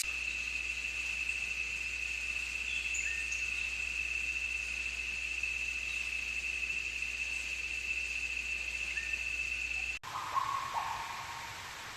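An insect's steady, unbroken high trill, with a few faint short chirps over it. About ten seconds in it cuts off abruptly and different audio follows, with a brief falling call.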